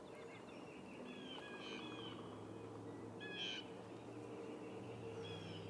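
Several short bird calls, chirps and quick gliding notes, the clearest about three and a half seconds in, over a faint steady hum.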